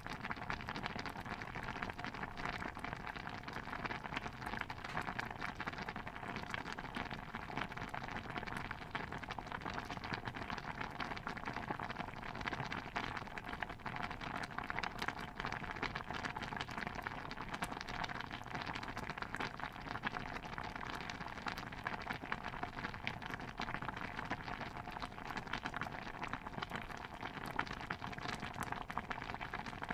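Steady water sound: a dense, unbroken patter of fine pops and drips, even in level throughout.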